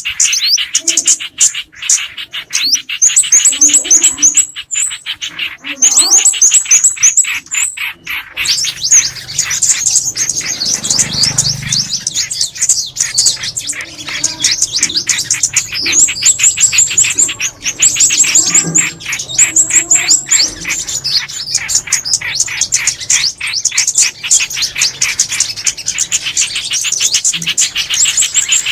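Recorded calls of several small songbirds of the kinds used as lure calls for glue traps. The chirping is dense and continuous, broken by repeated runs of fast, very high trill notes.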